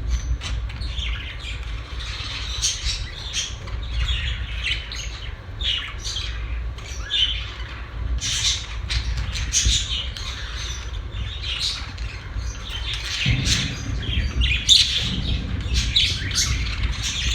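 Pet budgerigars chirping and chattering continuously, with frequent sharp squawks, over a steady low hum that gets louder about thirteen seconds in.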